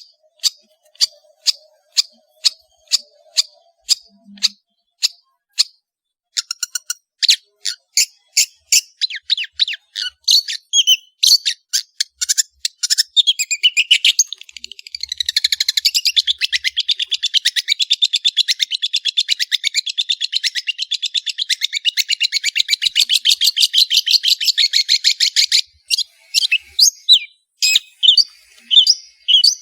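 Long-tailed shrike singing. It opens with sharp repeated notes about two a second, then quickens into varied notes and a long, fast chattering run lasting about thirteen seconds, and ends with scattered single notes.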